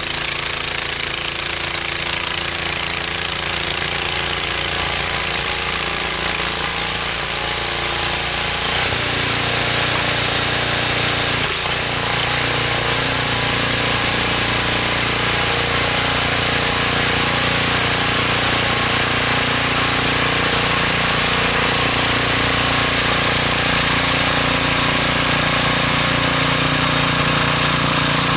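Small petrol engine of a snowblower running steadily under load while clearing heavy snow. About nine seconds in, its note shifts and it grows a little louder.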